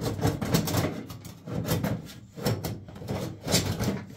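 Repeated scraping and rubbing in a cast-iron wood stove as packed ash is scraped out of its full ash bed, in several uneven strokes.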